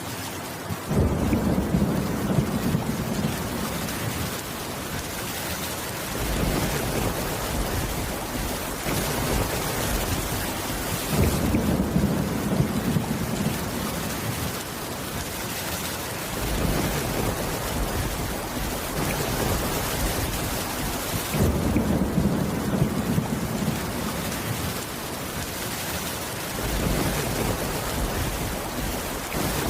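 Steady heavy rain with low thunder rumbles swelling and fading about every five seconds.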